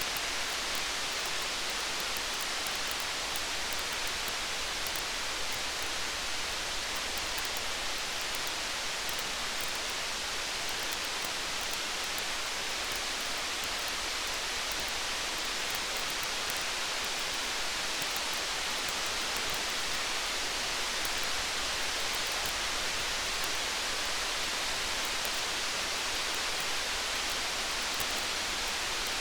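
Steady rain hiss with faint small crackles of a wood fire scattered through it.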